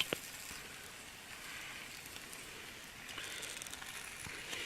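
Lamb roast sizzling in a camp oven over campfire coals: a steady crackling hiss, with a sharp click or two near the start.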